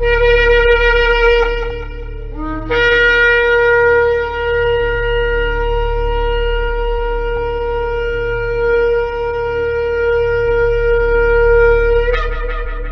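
Shofar (ram's horn) blowing long held blasts: a note that breaks off about two seconds in, then one long steady blast of about nine seconds that jumps up to a higher note near the end. A low steady hum lies underneath.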